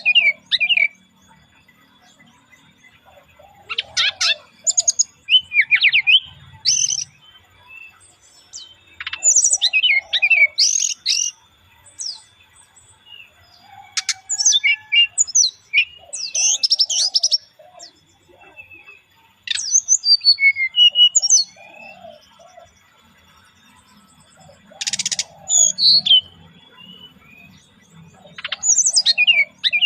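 Brown-chested jungle flycatcher (SRDC) singing in short bursts of quick, high chirping and trilling phrases, one burst every few seconds, with pauses between.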